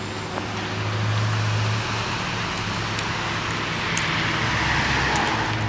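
Road traffic: a vehicle passes close by, its tyre and road noise swelling through the second half, over a steady low engine hum.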